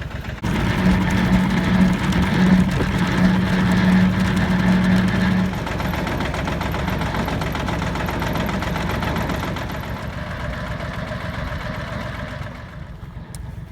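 Kubota tractor running a brush hog (rotary cutter) while mowing, a loud steady machine drone. A strong hum drops out about five seconds in, and the sound eases off somewhat after about ten seconds.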